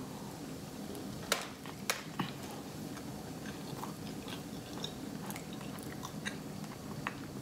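A person chewing a big bite of burrito close to the microphone: soft wet chewing with a few sharp clicks in the first couple of seconds.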